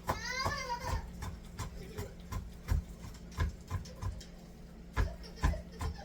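A domestic cat meows once, a single rising-then-falling call lasting under a second, followed by irregular light knocks.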